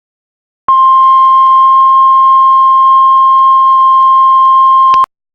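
Heart monitor flatline: one long, steady, high-pitched tone that starts under a second in and cuts off suddenly near the end, the alarm that signals the heart has stopped.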